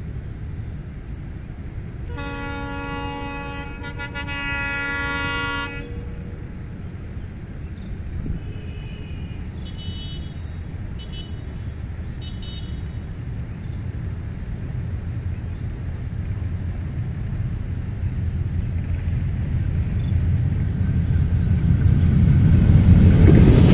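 Diesel locomotive's air horn sounding from a distance in two blasts, about two seconds in, the second running to about six seconds. Then the low rumble of the approaching diesel train swells steadily, loudest near the end.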